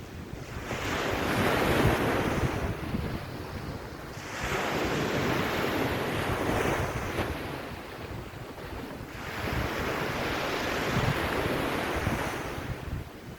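Sea waves washing onto a beach, the surf noise swelling and ebbing three times, with wind buffeting the microphone.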